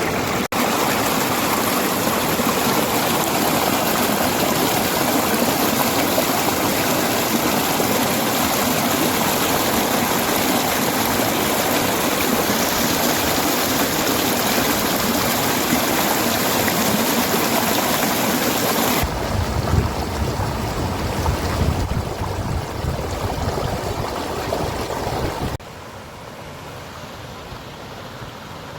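Rushing water running steadily. About two-thirds through the sound changes abruptly to a low rumbling for several seconds, then drops suddenly to a quieter, thinner rush near the end.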